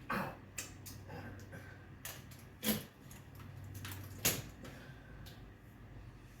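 A few scattered light knocks and clicks over a steady low hum, the loudest about two and a half and four seconds in.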